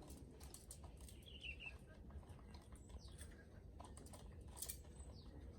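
Near silence with scattered faint clicks and ticks, and a brief faint high bird chirp a little over a second in.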